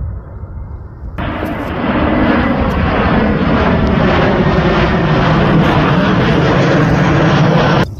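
Airplane flying low overhead: a loud, steady engine drone that comes in about a second in and cuts off suddenly near the end.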